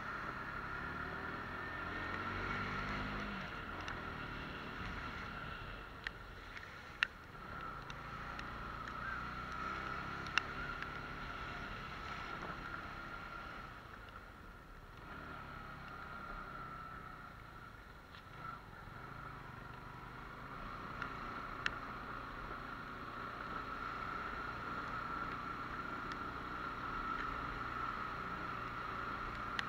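Pulsar 150 motorcycle's single-cylinder engine running on the move in the rain, its pitch rising and falling with the throttle, over a steady hiss of wet road and spray. A few sharp ticks come through.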